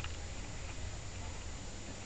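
English bulldog's faint, low snoring breath, with a small click near the start.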